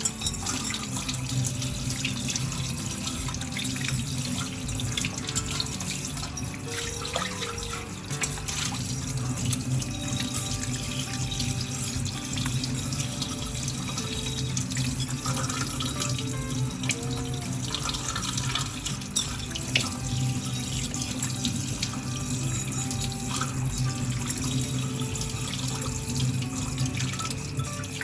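Kitchen tap running steadily into a sink as a pot is rinsed under it, with faint background music.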